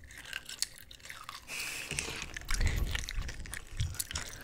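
Close-miked chewing of a crunchy gummy candy with a sugary, Nerds-like coating: scattered small crunches and clicks, busier from about a second and a half in.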